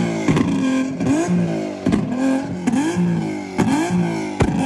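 Car engine revved in quick, regular blips, about two a second, each rising sharply in pitch and then holding, with a few sharp cracks in between.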